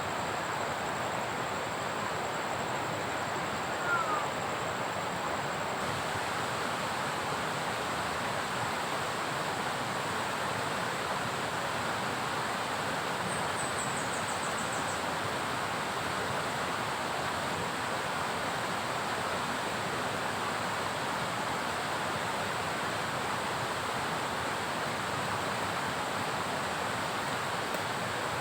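Steady, even rushing noise of heavy rain falling, with a brief high chirp about four seconds in.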